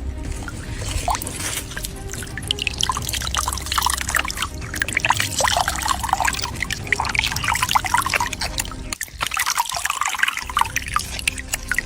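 Water trickling and dripping: a rapid, irregular patter of small splashes over a low steady hum.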